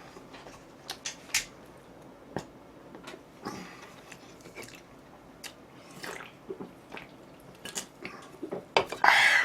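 A person eating fried chicken: scattered crisp crunches and clicks of biting and chewing, with a louder noisy burst near the end.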